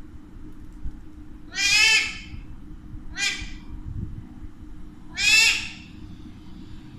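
Alexandrine parakeet giving three loud, harsh calls: one about a second and a half in, a shorter, fainter one near the middle, and a third about five seconds in.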